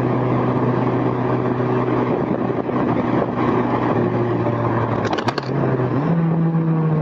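Honda S2000's four-cylinder engine running steadily at cruise with the top down, heard from the passenger seat over road and wind noise. About five seconds in there are a few clicks, and the engine note then steps up and slowly sinks.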